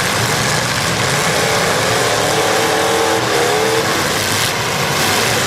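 Demolition derby cars' engines running and revving in a loud, continuous din, with a wavering rise and fall in pitch around the middle.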